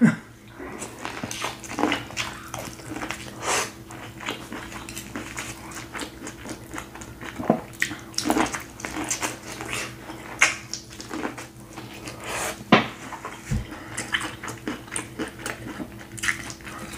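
Close-up mouth sounds of eating sauce-coated corn on the cob: wet chewing and lip-smacking, with many short clicks and smacks scattered irregularly throughout.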